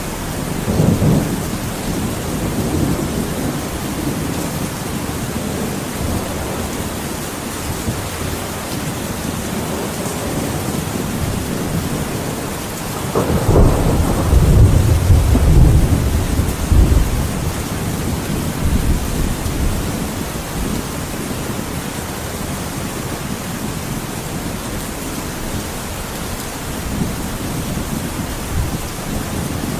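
Thunderstorm: steady rain with rolling thunder, a short rumble about a second in and a louder thunderclap about halfway through that rumbles on for several seconds.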